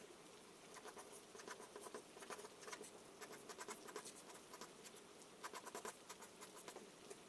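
Charcoal scratching across paper in quick bursts of short strokes, faint, over a soft steady hiss of rain.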